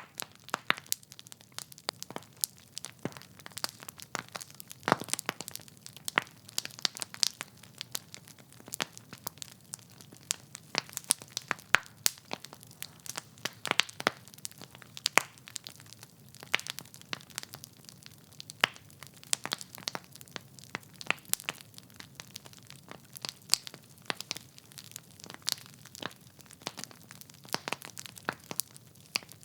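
Wood fire in a fireplace crackling: logs burning with frequent irregular sharp pops and snaps over a soft steady hiss of the flames.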